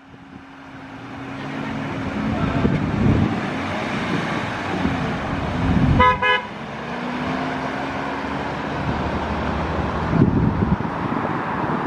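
Vehicles driving past in a convoy, with engine and road noise building up over the first couple of seconds, and one short car horn toot about six seconds in.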